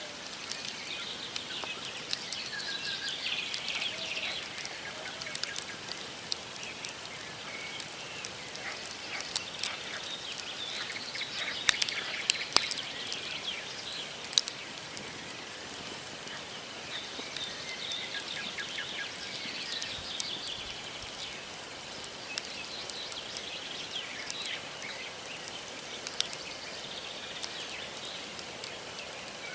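Wood campfire crackling, with sharp irregular pops that come thickest in the middle. Small birds chirp and twitter in bouts over the fire.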